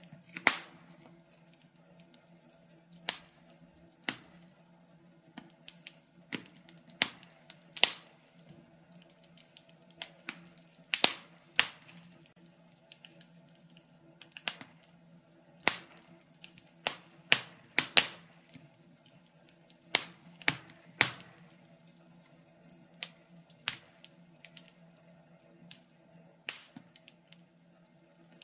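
Wood fire crackling in a fireplace: irregular sharp pops and snaps, one every second or so, some in quick pairs, over a faint low steady hum.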